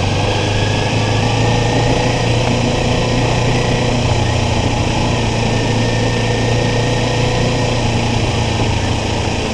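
Kawasaki Ninja 400's parallel-twin engine running at a steady, unchanging note, with road noise over it.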